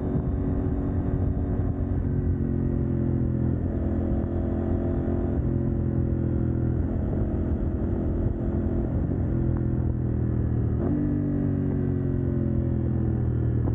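CF Moto 800NK parallel-twin engine running through a de-catted exhaust while riding, its pitch shifting up and down a few times and falling away in the last few seconds.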